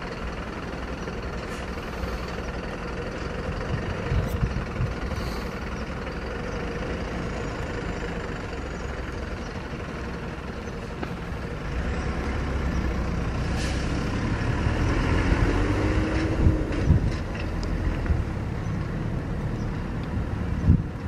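Red double-deck push-pull regional express train approaching on an electrified main line: a steady rumble of the train running on the rails that grows louder from about halfway through.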